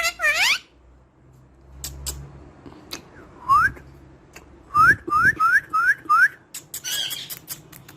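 Pet parrot whistling: one rising whistle, then five quick rising whistles in a row about halfway through, with short harsher calls at the start and near the end and a few sharp clicks.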